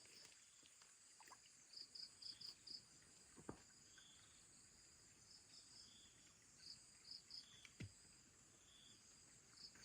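Near silence with faint insect chirping: short high chirps in quick groups of four or five, and two faint clicks.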